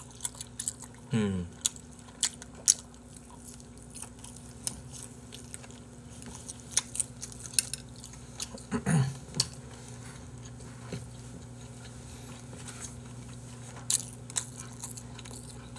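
Close-miked chewing and biting of grilled chicken skewer meat, with scattered wet mouth clicks and smacks. There are two brief falling vocal hums from the eater, about a second in and near nine seconds.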